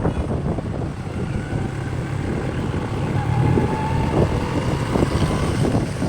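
Wind rushing over the microphone of a moving motorcycle, with the engine and road noise running steadily beneath it.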